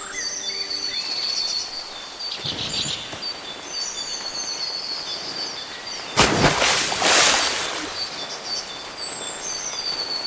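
Many small birds chirping and whistling in a natural ambience. About six seconds in comes a loud burst of rushing noise lasting under two seconds, and a softer one comes earlier, near the third second.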